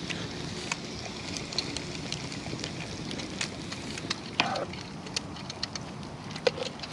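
Wood campfire crackling: irregular sharp pops and snaps over a steady low rush.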